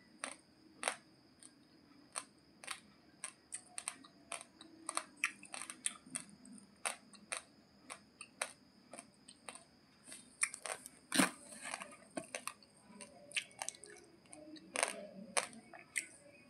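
Raw, uncooked basmati rice grains being chewed: sharp, irregular crunches, a few a second, with a louder cluster about two-thirds of the way through.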